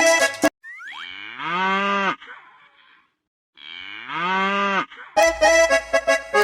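Two cow moos, each about a second and a half long, in a break in accordion-led children's music. The music stops half a second in and comes back near the end.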